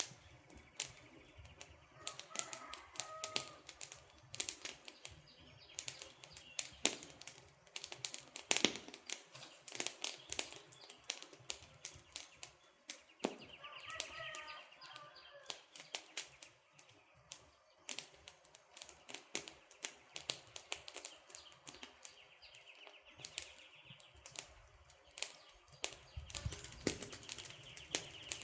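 Wood campfire crackling, with dense irregular sharp pops and snaps. Faint bird chirps come twice, about two seconds in and again around the middle.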